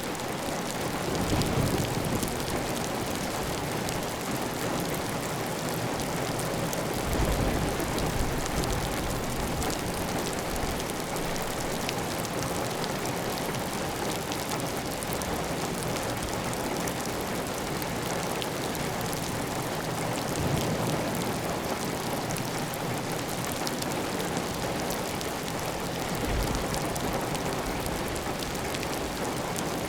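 Heavy rain falling steadily on a tile roof, with water running off the roof edge. A few brief low rumbles rise out of the steady rain now and then.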